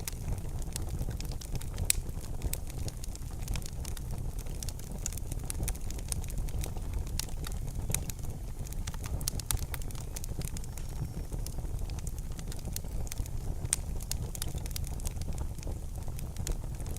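Wood fire in a fireplace crackling: irregular sharp snaps and pops over a steady low rumble.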